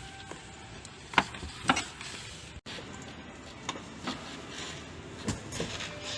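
Rear seatbacks of a Mercedes-Benz GLA being released and folded down into the cargo area: a series of sharp clicks and knocks, the two loudest a little over a second in, smaller ones later.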